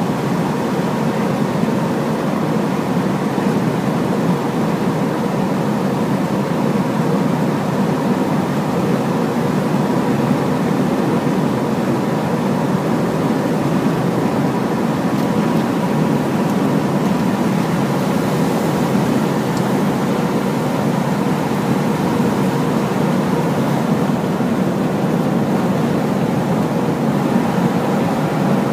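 Large Hino truck driving at a steady pace: an even, continuous engine and road noise, low and unchanging, with a faint steady whine on top.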